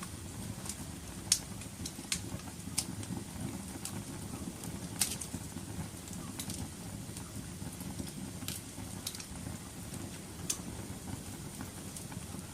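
Wood fire crackling in a fireplace: irregular sharp pops and snaps over a steady low rush of burning, with the loudest pops about a second in and about five seconds in.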